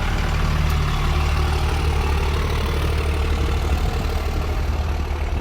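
A vehicle engine idling steadily, pretty noisy, with its sound mostly in a low, even rumble.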